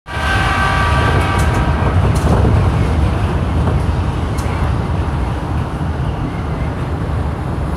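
Electric commuter train running at speed, heard from inside the front cab: a steady low rumble of wheels on rails. High ringing tones fade out over the first two seconds.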